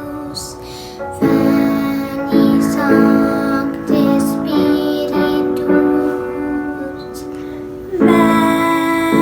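Children's choir singing a slow chant with piano accompaniment, held notes changing about once a second.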